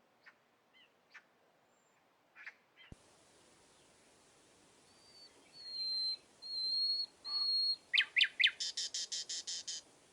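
Songbird singing: a few faint chirps, then three held high whistled notes followed by a quick trill of about a dozen rapid notes. A click comes about three seconds in.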